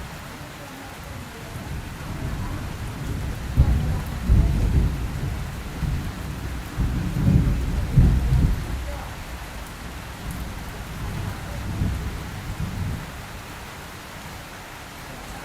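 Steady rain falling, with a long roll of thunder that builds about two seconds in, peaks sharply around four and again around eight seconds in, then rumbles away.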